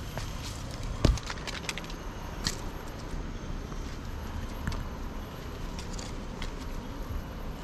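Scattered irregular clicks and knocks over a steady low rumble, with one sharper, louder knock about a second in.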